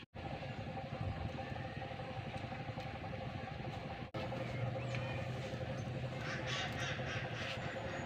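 Birds calling, with crow-like caws, over a steady low hum. The sound drops out for an instant right at the start and again about four seconds in.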